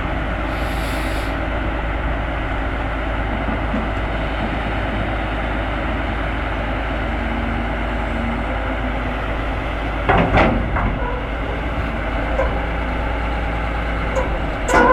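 Heavy diesel construction machinery running steadily under load. A short hiss comes about a second in, and a loud clattering knock about ten seconds in and another at the end.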